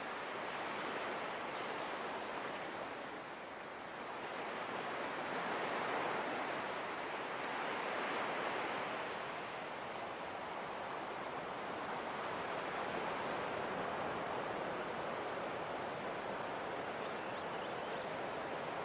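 Ocean surf washing on a beach, a steady hiss of water that swells and eases slowly, fullest about six and eight seconds in.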